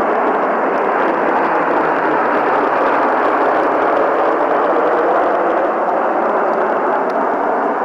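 Loud, steady roar of aircraft engines as an aircraft flies past.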